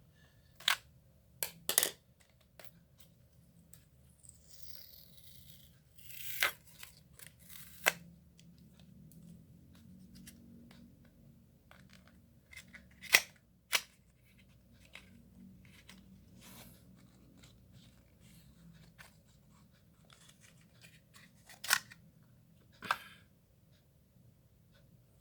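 Scissors snipping and packaging being handled: about nine sharp, irregularly spaced snips and clicks, with a rustle of wrapping about four to six seconds in.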